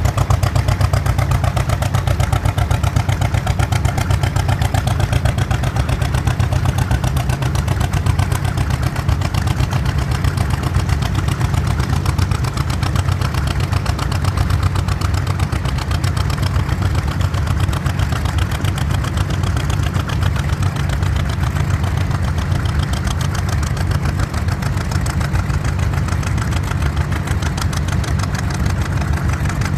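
Vintage tractor engine running steadily, with a loud low rumble and a fast, even beat.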